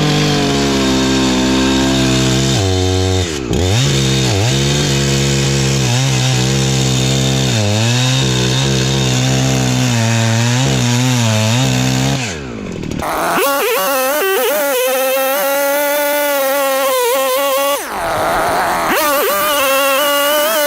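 84cc two-stroke chainsaw cutting through firewood under load, its engine pitch held down and wavering as the chain bites. About twelve seconds in the saw comes free of the cut and runs at a much higher pitch at full throttle, with a brief dip near the end.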